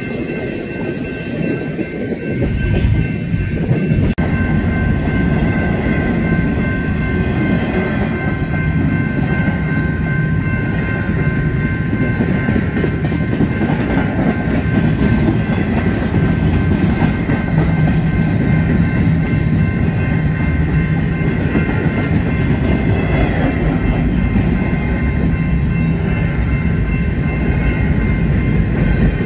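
Empty BNSF intermodal spine cars rolling past close by, a steady rumble of wheels on rail with clacking over the joints, getting louder about four seconds in. A few steady high-pitched tones ring along with it.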